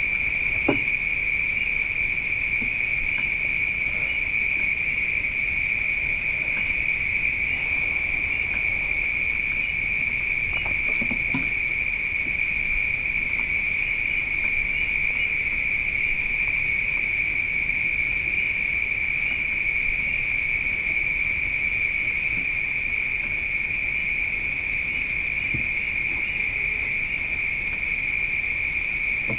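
Continuous night chorus of crickets: a steady high-pitched trill that does not let up, with a few faint brief clicks.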